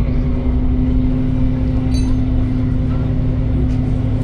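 Steady low engine hum of motor traffic, with a brief high-pitched squeak about two seconds in.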